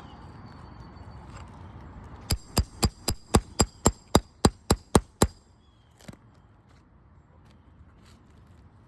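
Roofing hammer striking about twelve times in quick, even succession, about four blows a second, then stopping.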